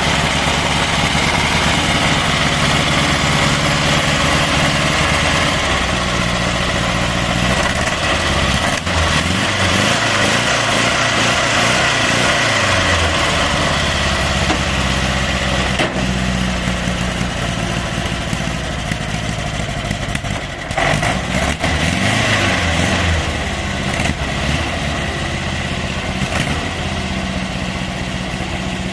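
Old car's air-cooled engine running, revving up and down twice, with the engine speed climbing and dropping over a few seconds each time. The engine is running after standing unused for several years.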